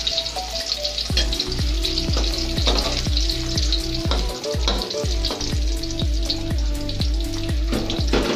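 Lumpia shanghai (spring rolls) frying in hot oil in a wok: a steady sizzle. Background music with a steady beat plays under it.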